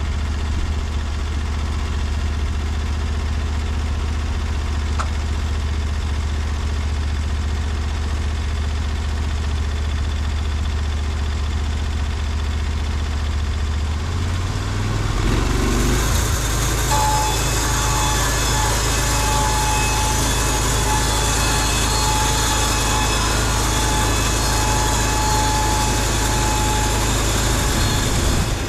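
Norwood LumberPro HD36V2 portable band sawmill running. The engine drones steadily, and about halfway through its note shifts and a louder hiss joins in, along with a thin, steady whine, as the band saw works through the wood.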